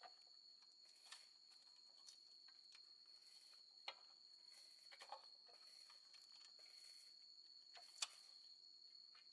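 Near silence with a few faint, scattered clicks and light knocks, the loudest about eight seconds in, over a faint steady high-pitched tone.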